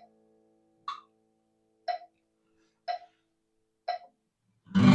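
Metronome clicking about once a second, one click higher-pitched than the rest, while the last strummed acoustic guitar chord rings faintly and dies away. Right at the end a new chord is strummed once, loudly.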